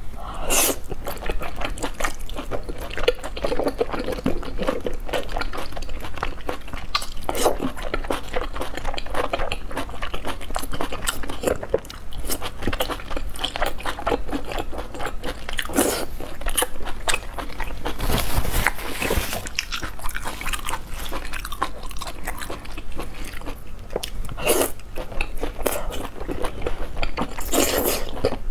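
Close-miked chewing of chewy stewed lamb intestines, with wet mouth smacks throughout. Several louder slurps come as strands are sucked in from the chopsticks, one of them near the end.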